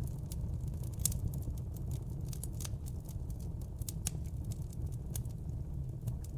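Wood fire burning in a fireplace: a steady low rumble of the flames with irregular sharp crackles and pops from the burning logs, a louder pop about a second in.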